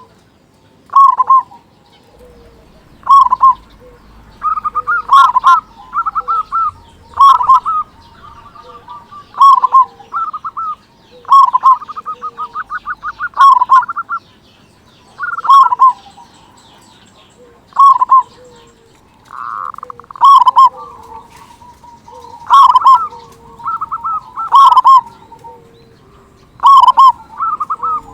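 Zebra dove (perkutut) cooing: a loud short phrase repeats about every two seconds, with quieter fast repeated coo notes in between.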